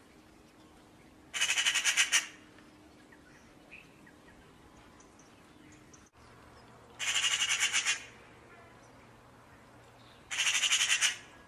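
A harsh, squawking bird call, three times, each about a second long with a rapid rattling pulse, a few seconds apart.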